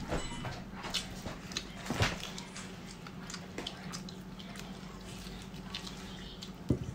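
Wet chewing and lip-smacking clicks from eating meat off a rib bone by hand. A sharper smack comes about two seconds in and another near the end, over a steady low hum.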